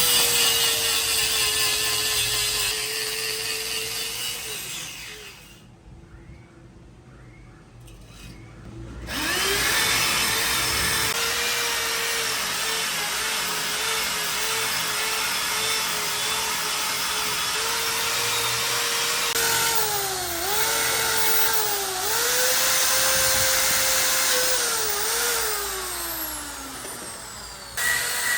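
An electric power tool's motor running with a steady whine and cutting noise. It stops about five seconds in and starts again a few seconds later, and near the end its pitch dips several times as it takes load before it runs down.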